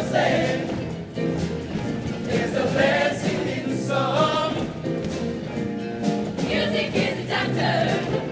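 Show choir singing with instrumental accompaniment.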